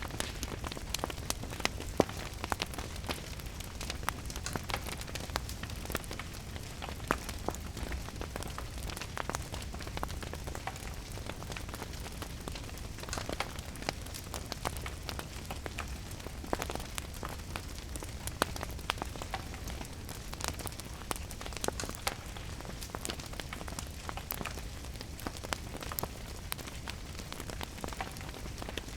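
Wood fire crackling in a fireplace, with frequent sharp irregular pops, over the steady hiss of falling rain and a low rumble underneath.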